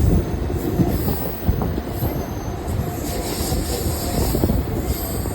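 Mumbai suburban local train running on the rails: a steady rumble with scattered knocks, and a faint high squeal of wheels on the track now and then.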